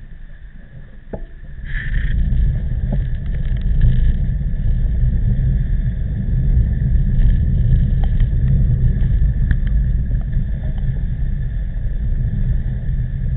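Wind buffeting the microphone during a bicycle ride in strong typhoon wind: a loud low rumble that rises sharply about two seconds in and keeps going.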